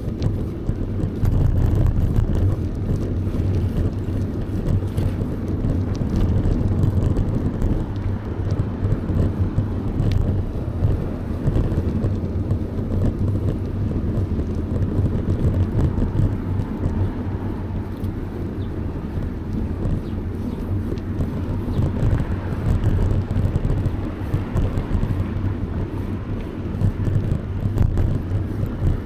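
Steady low rumbling noise from riding a bicycle, which has no speech and rises and falls a little. It has a few faint clicks.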